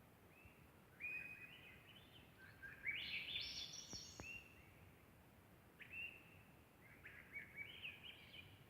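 Wild songbirds singing: several short phrases of high chirping notes, a few seconds apart, the loudest about three seconds in.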